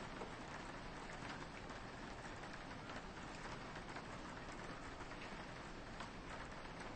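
Steady soft rain with scattered drop ticks, rain pattering on a window.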